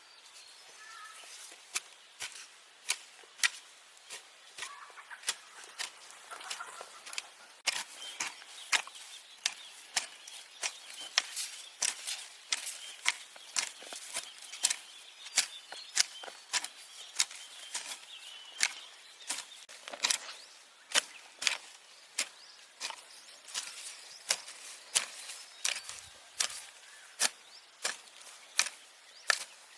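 Steady, evenly paced blows of a hand tool, about one and a half strikes a second, each a sharp crack.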